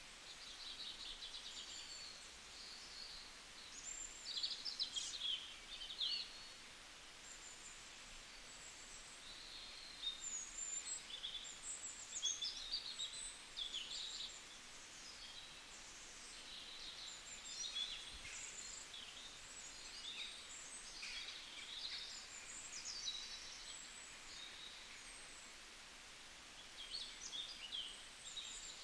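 Several small birds chirping and calling in short, scattered notes over a steady background hiss, busiest about four to six seconds in and again through the middle, with a quieter gap near the end.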